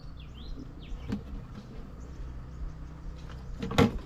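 Outdoor ambience with a bird's short falling chirps in the first second over a steady low rumble, a few light clicks of handling, and one sharp knock near the end, the loudest sound.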